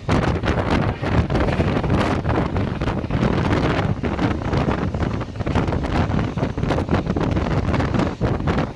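Train passing close by: a steady rumble with irregular clatter, and wind buffeting the microphone.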